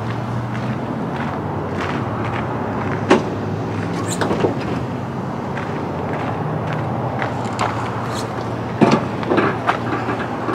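A steady low mechanical drone, with a few sharp knocks and clicks as the hood of a semi-truck is opened.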